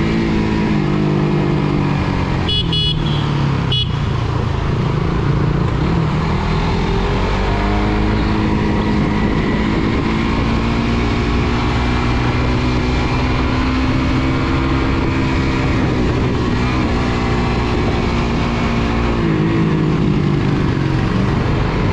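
Suzuki GSX-R150's single-cylinder four-stroke engine running under way, its pitch rising and falling with the throttle, over wind and road noise. A few short horn toots sound about three seconds in.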